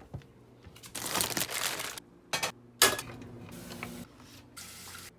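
Packaging crinkling and rustling in several short bursts, the sharpest one about three seconds in.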